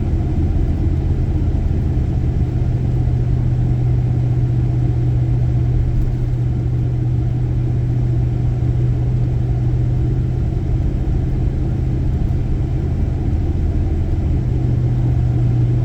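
Car road noise while driving, heard from inside the cabin: a steady low engine drone with tyre rumble underneath.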